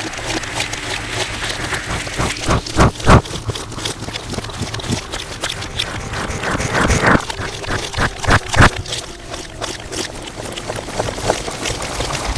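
Slime being squished and worked in the hands, an irregular run of wet squelches, clicks and pops, played back distorted. The loudest pops come about three seconds in and again around eight seconds in.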